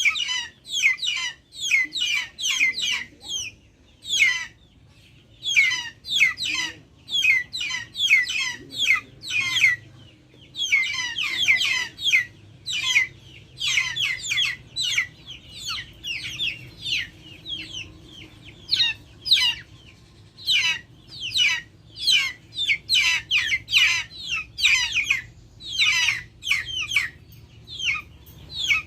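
Backyard chickens calling: a dense run of short, high-pitched peeping chirps, several a second, coming in quick bursts with brief lulls.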